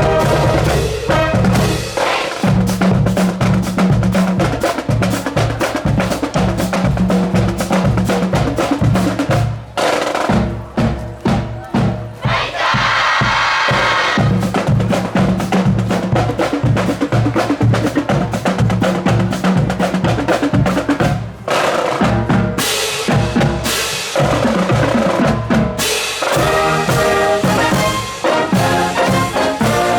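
Marching band's drum line playing a percussion feature: snare and bass drums in a quick, steady march rhythm. The brass section comes back in near the end.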